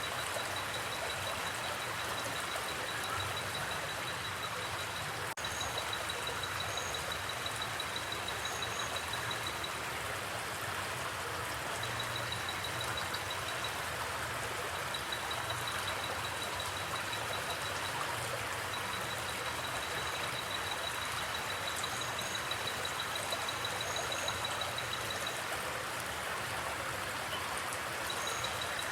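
Forest stream water flowing in a steady, even rush. Over it comes a thin, high, rapid trill in stretches of a few seconds, with pairs of short, higher chirps now and then.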